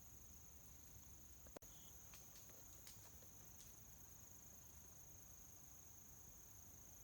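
Faint, steady high-pitched trilling of crickets, with a few small clicks in the first half.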